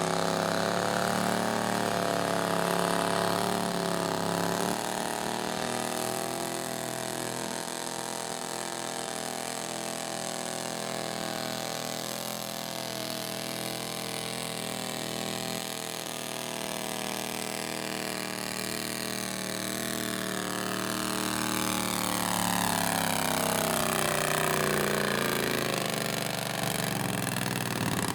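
Garden tractor engine running steadily, quieter and lower through the middle, then louder again in the last third as its pitch rises.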